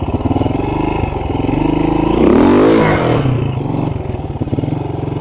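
Honda RTL trials bike's four-stroke single-cylinder engine pulling in first gear as it rides up over rocks. The revs rise about two seconds in, peak, and fall back to a slow, even beat.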